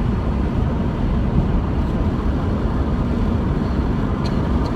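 Wind rushing through the car's open windows with road noise at freeway speed, a steady low rumble buffeting the microphone.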